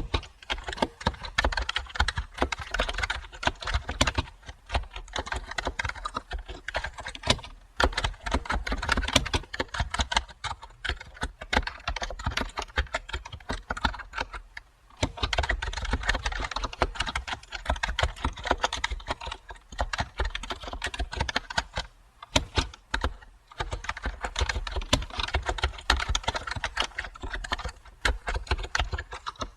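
Computer keyboard being typed on in fast, continuous runs of key clicks, with brief pauses about halfway through and again around three quarters of the way in.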